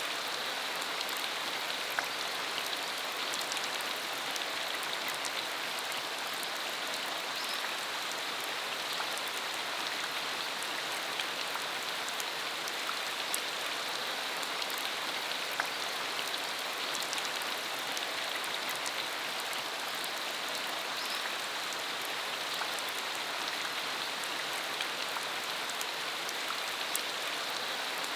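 Steady rain falling on a dirt road, an even hiss with many small drops ticking sharply throughout.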